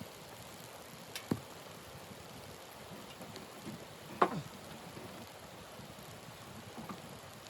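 Wood fire crackling: a steady hiss with scattered sharp pops and snaps, the loudest about four seconds in.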